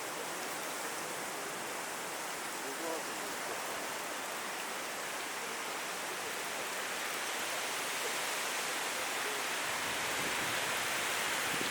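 Strong wind blowing, a steady rushing noise that swells a little near the end.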